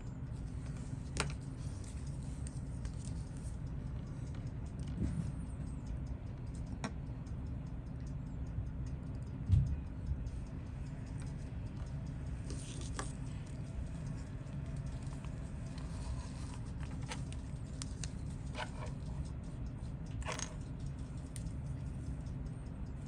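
Small scattered clicks and taps of watchmaker's tools and parts on a workbench as a Seiko 6139 chronograph movement is taken apart, over a steady low hum. A louder dull knock comes about ten seconds in.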